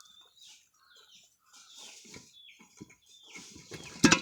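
Faint, short bird chirps, then near the end one loud, sharp clank: the propped steel vessel of a bird trap dropping shut when it is tripped with a stick.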